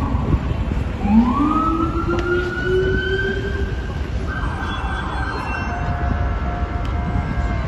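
Fire truck siren rising in pitch about a second in and holding a high wail. A loud air horn blast joins about four seconds in, over the low rumble of the apparatus.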